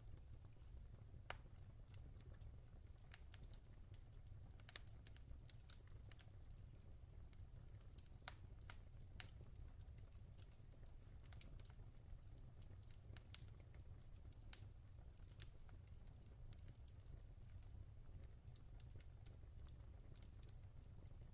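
Log fire crackling faintly: scattered sharp pops and snaps at irregular intervals, a few louder than the rest, over a low steady rumble.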